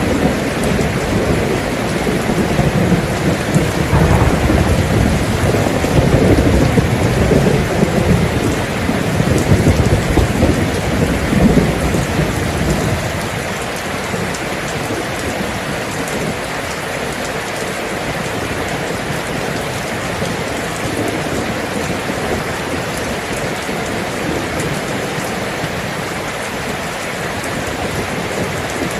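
Steady rain falling, with a long rumble of thunder through the first half that dies away a little before the middle, leaving the rain alone.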